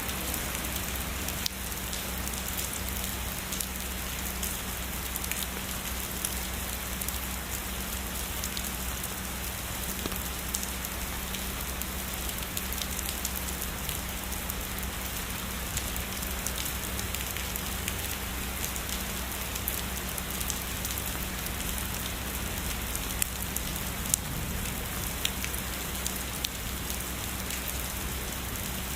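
Steady heavy rain falling on a surface, a dense hiss of drops with scattered sharper drop ticks.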